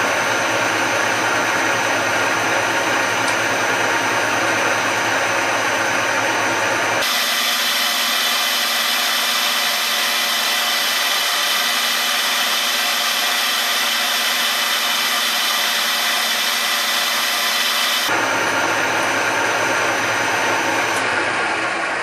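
Metal-cutting machine tool running steadily. The noise changes character abruptly about a third of the way in and changes back near the end.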